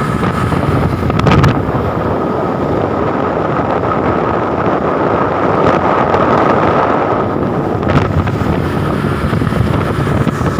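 Motorboat running under way, with wind buffeting the microphone and water rushing past. The sound is loud and steady, with a faint steady whine throughout and a couple of brief splashes or knocks.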